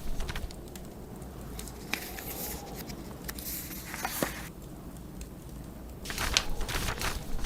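Wood fire crackling and popping in a fireplace, over a low steady rumble of blizzard wind, with a few longer dry rustles.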